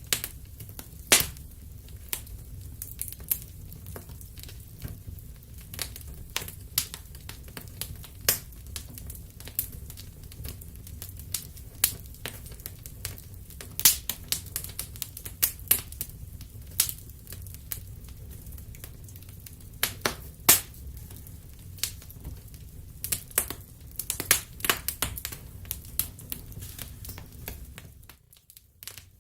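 Wood fire crackling, with sharp irregular pops several times a second over a low steady rumble of flame. The sound briefly drops out near the end.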